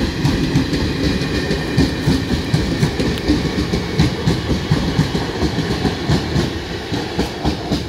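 Indian Railways express passenger coaches rolling past at speed, their wheels knocking over the rail joints in a rapid, uneven clickety-clack over a low rumble. The sound eases off near the end as the last coaches go by.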